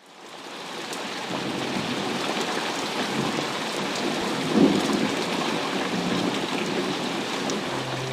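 Rainstorm sound: a steady hiss of rain fading in from silence, with a swell of low thunder-like rumble about four and a half seconds in.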